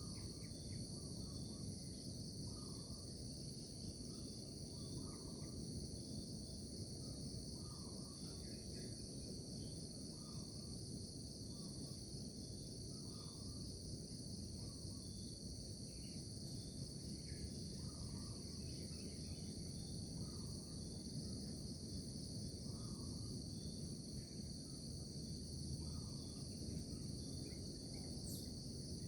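A steady, unbroken chorus of insects such as crickets over a low background rumble, with short chirping calls repeating every second or two.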